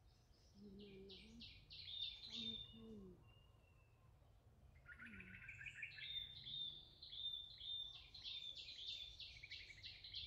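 A bird calling in rapid runs of short, high, repeated notes, once near the start and again for several seconds from about six seconds in, with a lower trill just before the second run.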